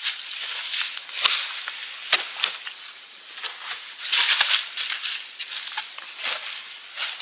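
Dry sticks and forest litter snapping and rustling in irregular sharp cracks, about one a second, with a longer rustle about four seconds in.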